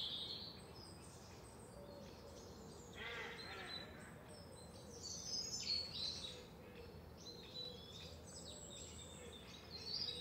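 Songbirds chirping and calling, short high calls in clusters, the loudest about five to six seconds in, over a faint steady background hum.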